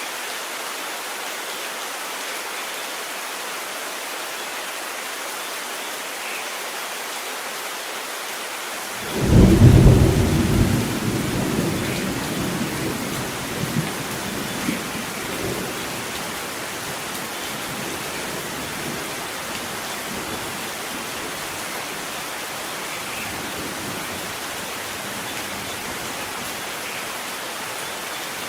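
Steady heavy rain with a single close thunderclap about nine seconds in: a sudden loud crack that rolls on as a rumble and dies away over several seconds, with a couple of smaller cracks in the tail.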